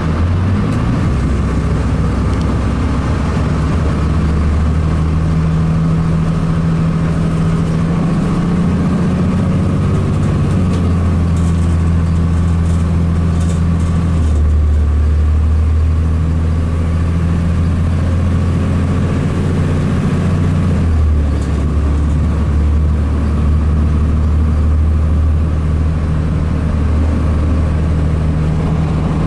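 Diesel engine of a Blue Bird CS transit bus, a Cummins ISC inline-six, running under way. Its low drone shifts pitch in steps several times.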